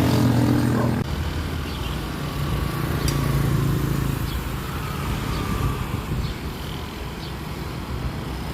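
Road traffic: motor vehicle engines running steadily, louder for about the first second.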